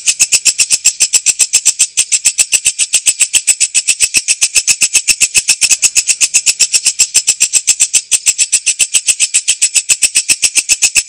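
Walang kecek katydid stridulating: a fast, even train of sharp, high-pitched chirps, repeated without a break.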